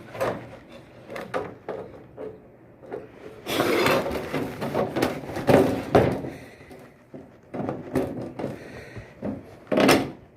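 Clicks, knocks and scraping from handling the parts of a sliding shower door. A denser run of rattling scrapes and thumps comes in the middle, and a sharp knock comes near the end.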